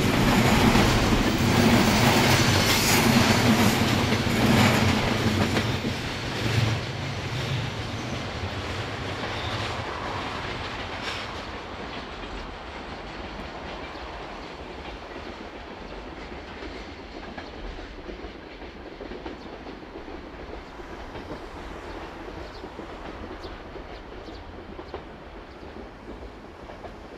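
Freight train's container flat wagons rolling past, wheels clattering over rail joints. Loud at first, the sound fades over the first dozen seconds as the end of the train draws away, leaving a faint distant rumble.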